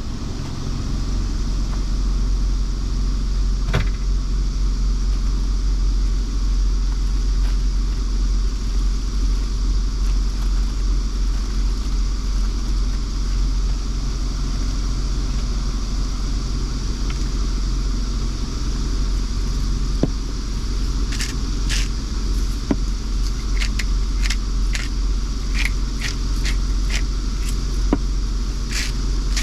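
Truck engine idling with a steady low rumble, heard from inside the cab. Over the last several seconds come a run of light, sharp clicks.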